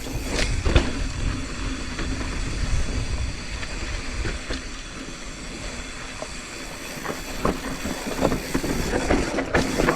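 Mountain bike riding over a rocky dirt trail: a steady rumble of tyres and wind on the microphone, with scattered rattles and knocks from the bike.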